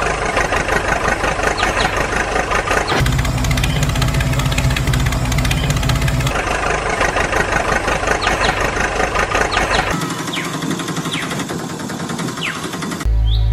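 A small tractor engine running with a rapid, even pulse. The sound changes abruptly every three to four seconds as the clips are cut together.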